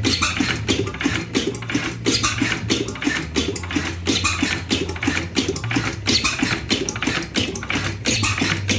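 1910 Hornsby single-cylinder stationary gas engine running on propane, its valve gear and moving parts clattering in a fast, even rhythm over a steady low hum.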